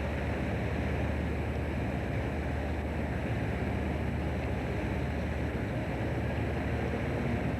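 A fishing boat's engine running steadily, a constant low hum under a wash of wind and sea noise.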